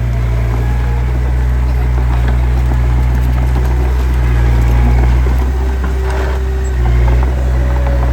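Small bulldozer's diesel engine running steadily at working revs, swelling a little about five and seven seconds in.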